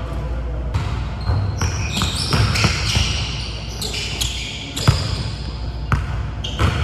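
Basketballs bouncing on a gym court as sharp, irregular knocks, mixed with short high-pitched squeaks.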